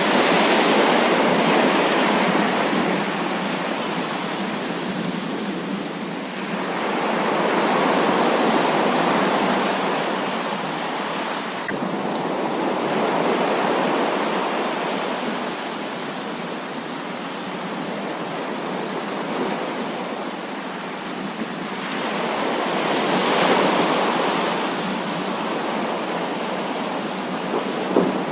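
Heavy rain falling in a dense, steady hiss that swells louder and dies back again four times.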